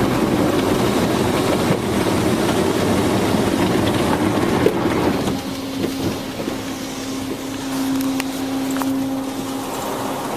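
Automatic car wash spraying and scrubbing a minivan, a loud rushing wash noise heard from inside the cabin. About five seconds in the rushing drops away, leaving quieter noise with a steady hum.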